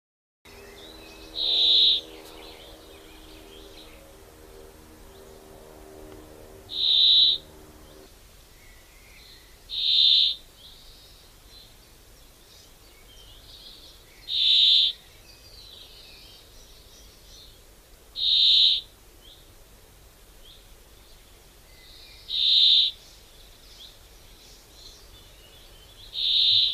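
A bird giving a short, loud, high call seven times, one every three to five seconds, over faint chirping of other birds. A faint low drone of several steady tones runs underneath until about eight seconds in.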